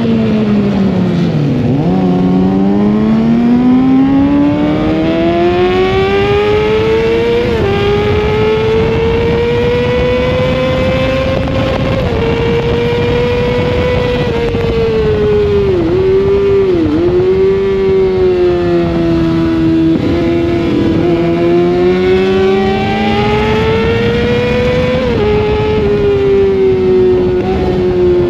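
Sportbike engine at racing speed: the pitch falls for the first two seconds under braking and downshifts, then climbs in long rises broken by sudden steps at gear changes, with quick dips and recoveries through the corners.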